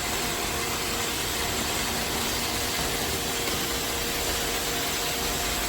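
iRobot Roomba Vac Essential (Q0120) robot vacuum running: a steady whirring hiss from its suction fan and brushes, with a faint steady hum.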